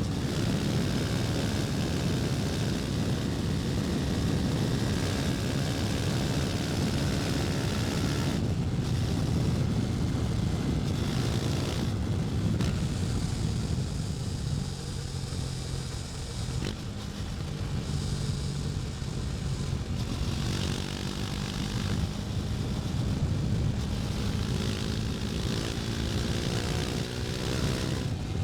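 KTM Duke 250's single-cylinder engine running under way, with wind rush over the microphone. The engine eases off for a few seconds around the middle, then its pitch rises as it pulls again near the end.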